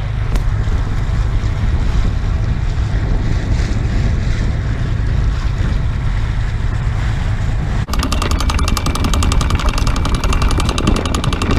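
Steady low rumble of a boat under way, with wind buffeting the microphone. About eight seconds in, the sound changes to a fast, even pulsing.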